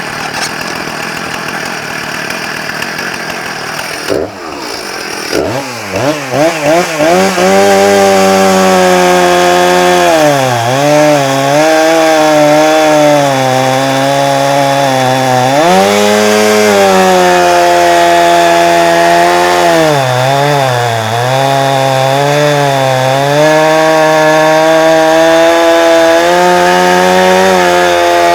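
Chainsaw with a Rotatech chain and bar idling, then blipped a few times and run at full throttle sawing through a knot in a log. The engine pitch sags briefly several times as it bogs under load in the cut.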